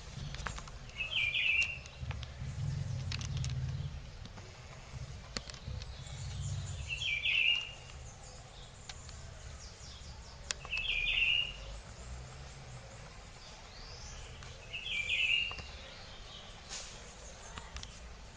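A short chirping call repeated four times, spaced three to four seconds apart, over a steady low rumble.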